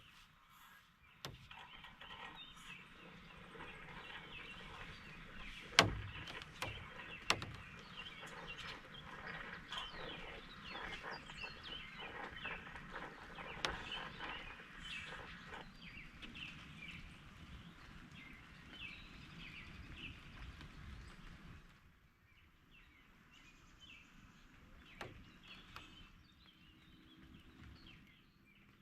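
Outdoor ambience of many birds chirping and calling over a steady low background noise, with two sharp knocks about six and seven seconds in. The birdsong thins out about three-quarters of the way through, leaving a quieter background.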